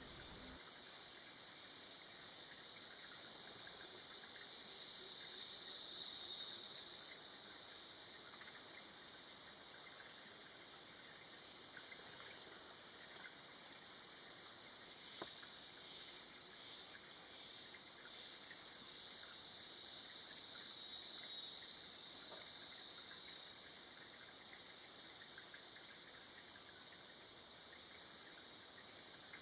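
A steady, high-pitched chorus of forest insects droning without a break, swelling louder twice, with a faint single tick about ten seconds in.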